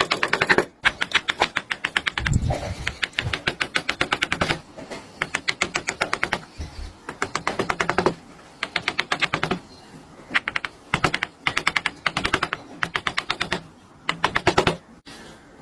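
Wood carving: rapid runs of sharp taps, each run about a second long with short pauses between, as a carving tool is struck into wood, with a couple of dull thumps.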